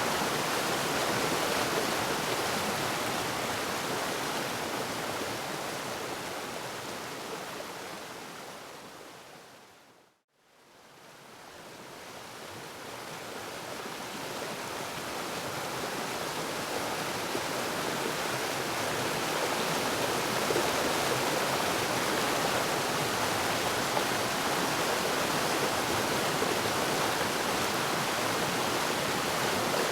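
Waterfall: a steady rush of falling water. It fades out over several seconds to a brief silence about ten seconds in, then fades back up to full level.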